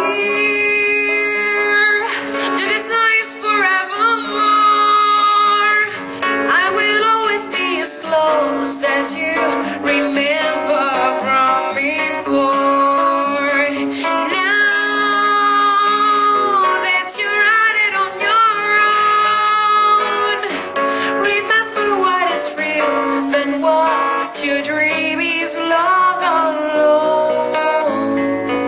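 Acoustic guitar playing, with a woman singing long held notes over it.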